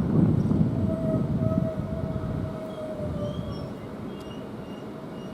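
Southeastern Class 395 high-speed electric train rolling into the platform and slowing, its rumble dying away after a couple of seconds, with a steady high whine for about two seconds as it comes to a stop.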